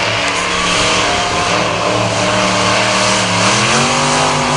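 Monster truck engine held at high revs, steady for most of the time, with the pitch climbing a little near the end.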